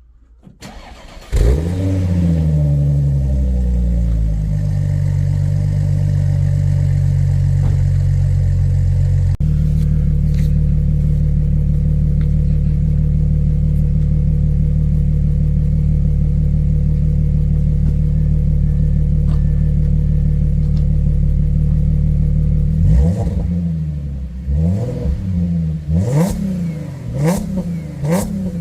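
Audi A7 3.0 TFSI supercharged V6 with an Akrapovic exhaust cold-starting at about −5 °C. A brief crank, then the engine catches with a flare of revs about a second in and settles into a steady fast cold idle. Near the end the throttle is blipped several times, the revs rising and falling.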